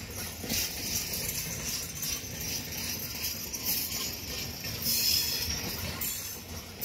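Passenger train coaches rushing past at speed: wheels running and clattering on the rails under a metallic jingling rattle, loudest about five seconds in.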